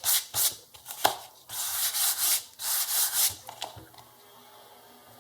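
Handling noise of cables and the circuit board being moved on the workbench. There are several short rustling, scraping bursts over about three and a half seconds, then they stop.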